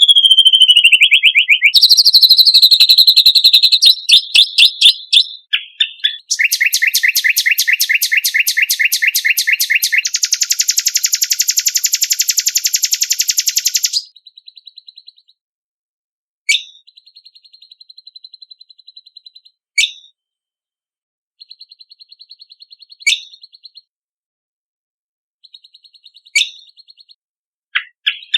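Songbird song. A falling whistle opens it, followed by rapid loud trills and a dense buzzing trill lasting several seconds. Then the song thins out to short sharp notes about every three seconds, with faint buzzy trills between them.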